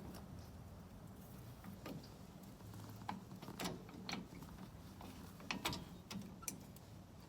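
Faint, irregular metallic clicks and knocks of hand tools and brake hardware being handled, with a few sharper clicks about three and a half and five and a half seconds in.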